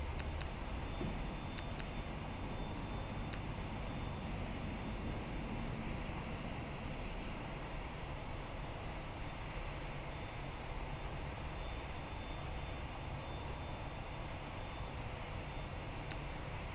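Jet airliner engines running, a steady even noise with no rise or fall, with a few faint ticks near the start and end.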